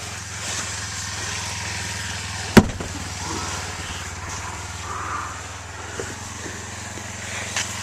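Motorcycle engine idling steadily, with a single sharp click about two and a half seconds in.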